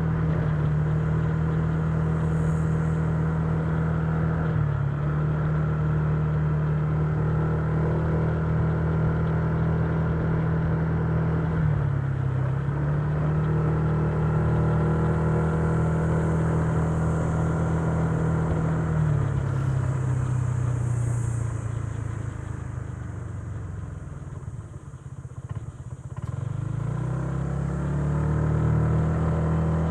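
Honda Giorno 125 scooter's single-cylinder engine running at a steady cruising pitch, easing off about three quarters of the way through to a low, quieter running, then picking up again as it accelerates near the end.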